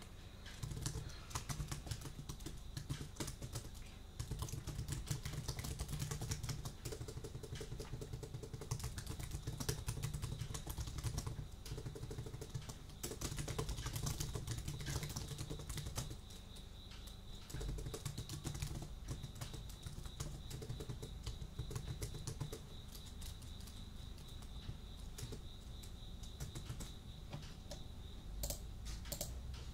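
Computer keyboard being typed on: rapid, continuous key clicks with short lulls, thinning to a few separate clicks near the end. A faint steady high tone runs underneath.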